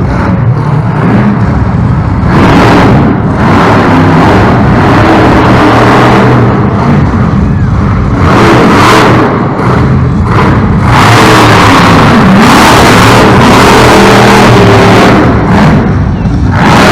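Monster truck's supercharged V8 engine revving hard, its pitch climbing and falling as the throttle is worked, very loud. The pitch swells and eases in several pushes.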